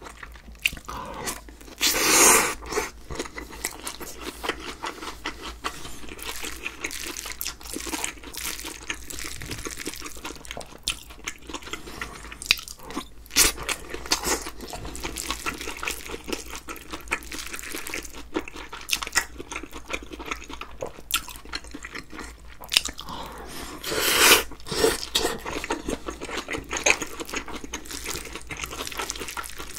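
Close-miked chewing of sea squirt bibimbap, wet and crunchy, with small clicks of a wooden spoon against a glass bowl. Two louder, longer bursts of noise stand out, one about two seconds in and another about two-thirds of the way through.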